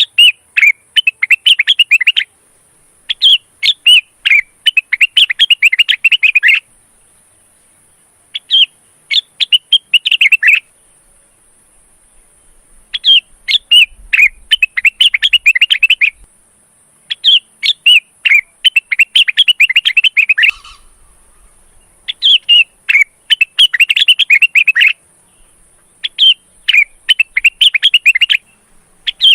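Male cucak wilis (rengganis), a leafbird in breeding condition, singing in about seven bouts of rapid, chirping notes, each two to three seconds long with short pauses between. A faint steady high hiss runs underneath.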